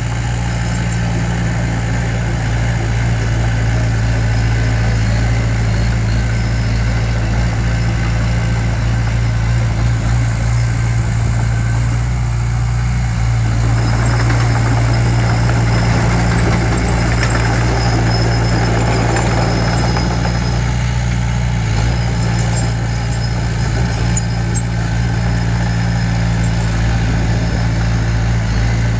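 Diesel engine of heavy construction machinery running steadily at a low, even pitch, with a noisier stretch of added clatter in the middle.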